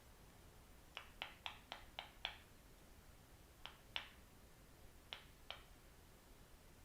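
Ten short, sharp taps on bare foot soles: a quick run of six at about four a second, then two separate pairs.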